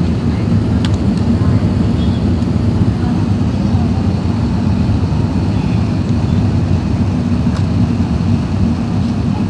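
Steady low cabin roar inside an Airbus A380 in flight, the engine and airflow noise holding level throughout.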